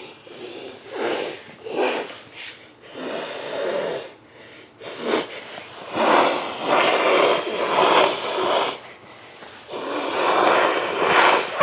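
A series of loud, breathy wheezing sounds close to the microphone: several short ones, then two long ones about six and ten seconds in.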